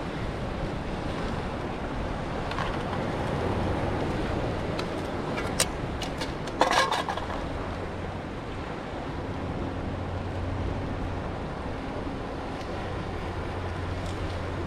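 Steady wind and ocean surf noise with a faint low engine-like hum underneath, a few clicks and one short, louder burst about seven seconds in.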